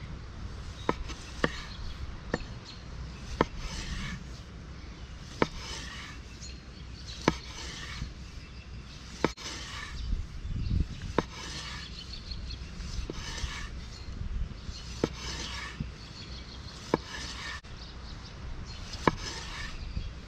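Knife slicing soppressata thin on a wooden cutting board: a rasping stroke through the sausage, then a sharp tap of the blade on the board, about once every two seconds.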